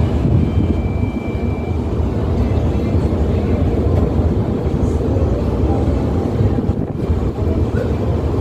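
Steady low rumble on board the passenger ship KM Kelud under way, strongest in the bass and unbroken throughout.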